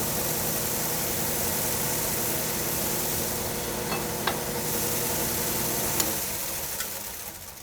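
Lawn mower blade cleaner running: a 1.5 hp electric motor driving two 8-inch counteracting wire brushes, giving a steady whirring hiss over a low hum, with a few light ticks. The sound fades over the last second or so.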